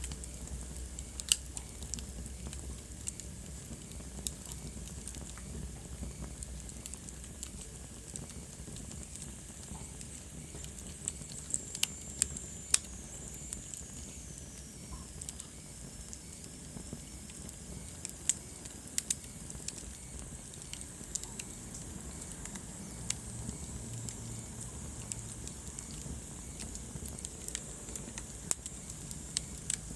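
Wood fire burning in a fireplace: a steady low hiss with sharp crackles and pops at irregular intervals, a few louder ones near the start, around the middle and about two thirds of the way in. A faint high whistle falls in pitch around the middle.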